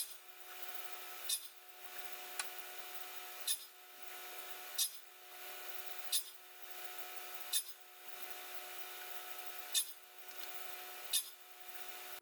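Short, sharp scraping strokes of a hand tool on wood, repeating about every second and a bit, over a steady faint hum.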